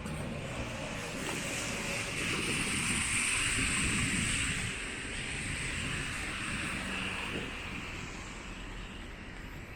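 Steady hiss of rain on a wet city street, swelling a couple of seconds in and easing off toward the end.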